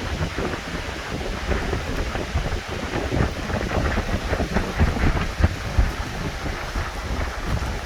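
Wind buffeting the microphone as a heavy, uneven low rumble, with irregular rustling and crackling over it.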